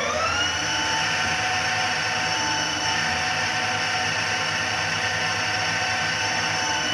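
Manual lathe spindle finishing its spin-up, its pitch rising and levelling off about half a second in, then running at speed with a steady, even whine of several stacked tones over a low rumble.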